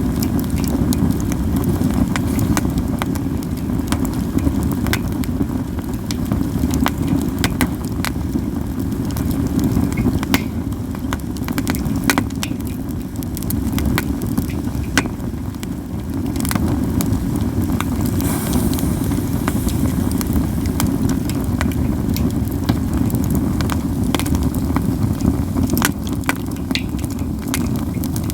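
Katsura wood fire crackling steadily, with frequent sharp pops and snaps, over a steady low rumble.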